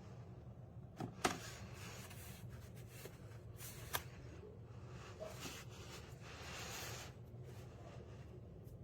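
Faint handling noises: rustling and a few sharp clicks over a low steady hum.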